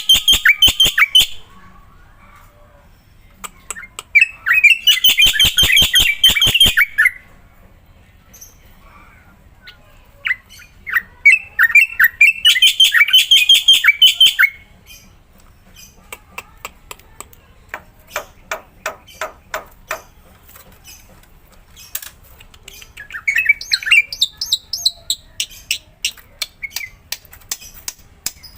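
Black-winged myna (jalak putih) calling: three loud, harsh, rapidly pulsing bursts a few seconds apart, then a run of short sharp clicks with a few brief chirps.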